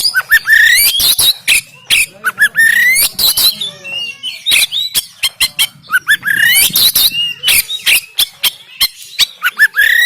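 Oriental magpie-robin (kacer) singing loudly, a rough song of rapid sharp clicking notes broken by repeated phrases of rising whistles, one phrase every three or four seconds.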